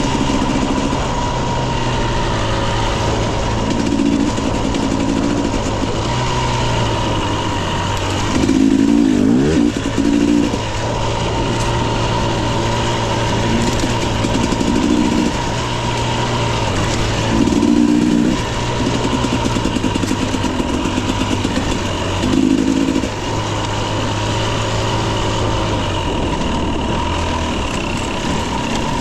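Husqvarna TE 250i two-stroke dirt bike engine running under a rider on a trail. It revs up in short bursts every few seconds and drops back between them.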